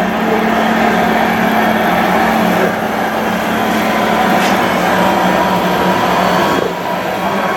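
Small electric motors of a radio-controlled construction model running steadily with a whine, with a brief dip near the end.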